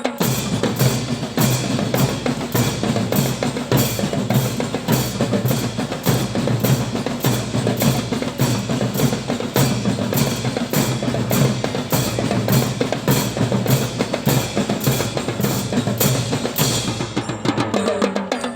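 Drums and percussion played live in a steady, even beat of about two to three strokes a second, with bass and snare drum strokes among them.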